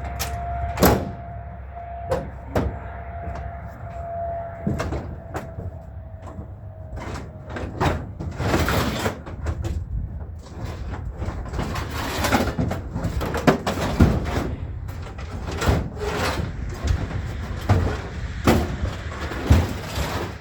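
Scrap metal being loaded onto a truck: repeated clanks and knocks, with scraping as pieces are dragged across the bed. It gets busier from about eight seconds in.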